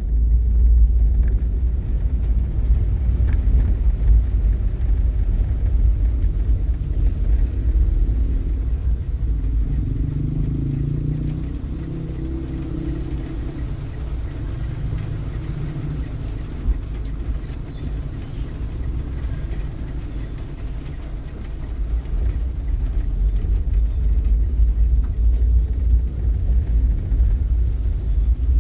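Steady low rumble of a motor vehicle on the move, with a somewhat stronger engine hum for a few seconds around the middle.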